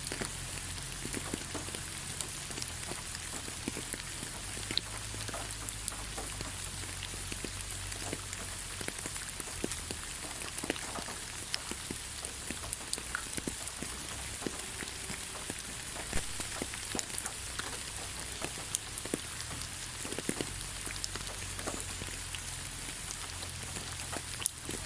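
Steady light rain, an even hiss with many separate drops pattering and ticking on leaves and surfaces, over a low rumble.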